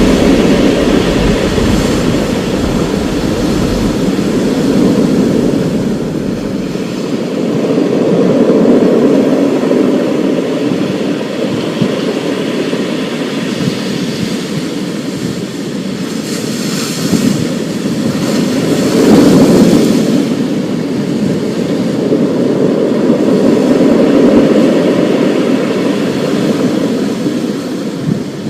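Thunderstorm: rolling thunder rumbling continuously, swelling and easing several times, over a steady wash of rain.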